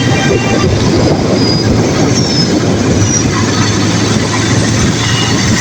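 Steady running noise of a vehicle in motion heard from on board, a constant low hum under rumbling noise, with a few brief high squeals.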